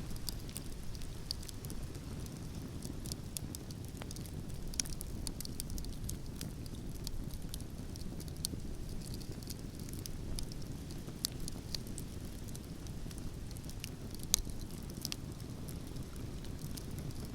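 Wood fire in a fireplace crackling, with scattered sharp pops over a steady low rumble of the flames. The loudest pops come at about five seconds and near the end.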